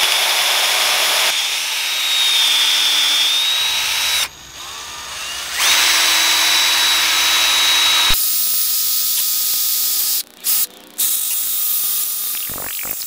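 A power tool running in several short spells, with a steady high whine over a hiss. It cuts out about four seconds in, starts again, and changes to a rougher, noisier sound partway through, with brief breaks near the end.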